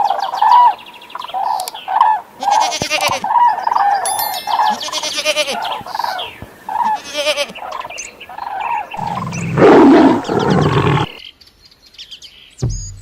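Animal sound effects: a long run of short, repeated animal calls, then a loud roar lasting about two seconds, starting about nine seconds in.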